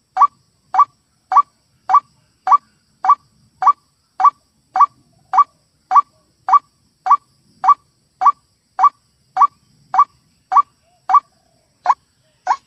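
White-breasted waterhen (ruak-ruak) calling: short, slightly rising notes repeated steadily just under twice a second, with a brief break near the end.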